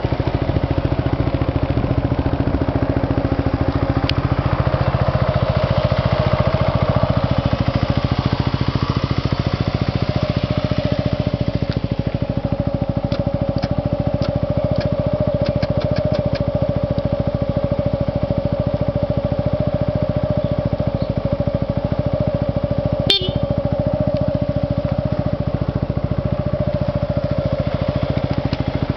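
Yamaha Majesty 250 FI scooter's single-cylinder four-stroke engine idling steadily, with a few light clicks about halfway through and one sharp tick later on.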